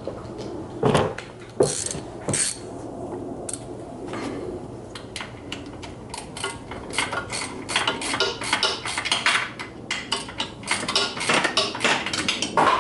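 Metal hand tools clicking and clinking as a wrench works a bolt: a few sharp knocks in the first seconds, then a quick, uneven run of metallic clicks that grows louder toward the end.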